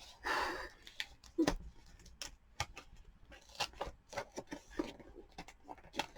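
Cardboard packaging being handled and opened: a short scraping rustle near the start, then a run of small irregular clicks and taps.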